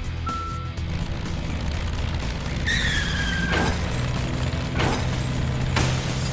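Added cartoon sound effects over a steady low vehicle hum: a last short reversing beep at the start, a falling whistle-like tone about three seconds in, then three crashes in a row.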